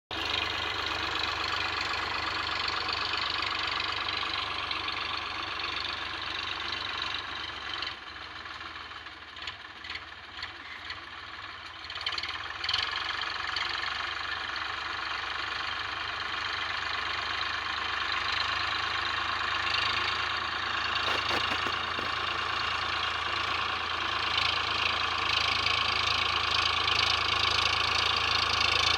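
Eicher 557 tractor's diesel engine running steadily while levelling a field. The sound drops for a few seconds about a third of the way in, with a few short knocks, then slowly grows louder toward the end.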